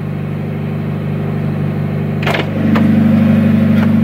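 Car engine idling, heard from inside the cabin as a steady low hum. A short click comes about two seconds in, and just after it the hum steps up and grows louder.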